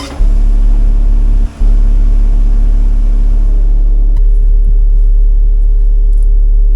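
CAT 310 excavator's engine running with a heavy, steady low rumble. Its hum shifts to a different pitch about four seconds in.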